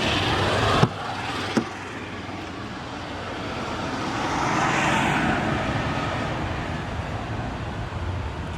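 A car door shuts with a clunk about a second in, followed by a lighter click; then the noise of a passing vehicle swells and fades, loudest around the middle.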